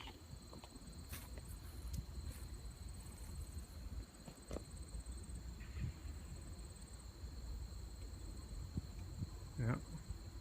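Faint, steady high-pitched chirring of crickets, over a low rumble, with a few soft clicks and knocks.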